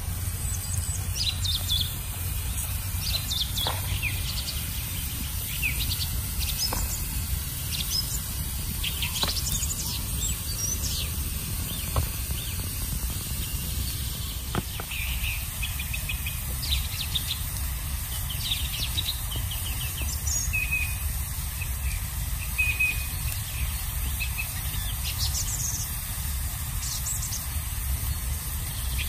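Wild birds chirping and calling, many short chirps and trills, over a steady low rumble, with a few faint clicks in the first half.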